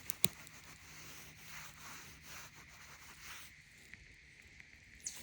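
Footsteps and soft rustling on a woodland trail, with a couple of sharp clicks right at the start.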